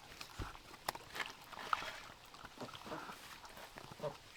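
A pet eating fish meat it has just been given: scattered small clicks and taps, with a soft thump about half a second in.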